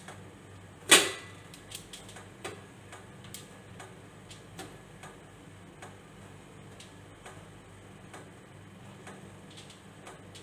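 Small rice-flour dough balls being set one by one into a metal idli plate, making light irregular taps, with one louder clank about a second in.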